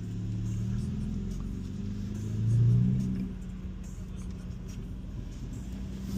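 BMW M3's twin-turbo straight-six engine running at low speed, rising briefly under throttle about two and a half seconds in before easing back to a steady low hum.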